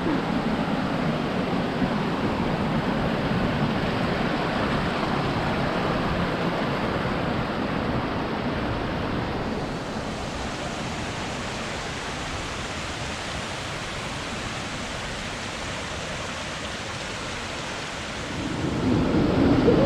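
Steady rushing of a waterfall, a little quieter from about halfway through.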